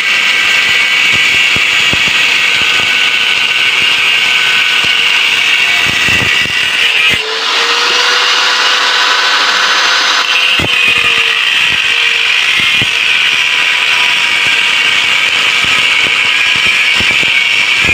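Angle grinder cutting into the steel shell of a refrigerator compressor: a loud, steady grinding run, with the motor's pitch sagging under load. It eases off briefly about seven seconds in, then picks back up.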